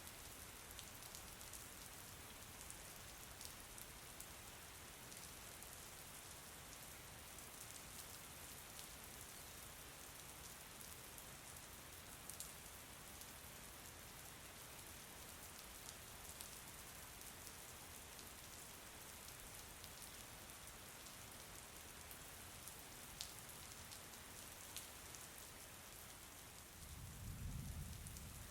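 Faint, steady rain falling, with scattered individual drop ticks, and a brief low rumble near the end.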